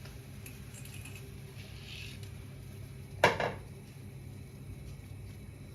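Kitchen pot sounds as spaghetti goes into a pot of boiling water: a few faint rustles, then one sharp metallic clink with a short ring a little over three seconds in, over a steady low hum.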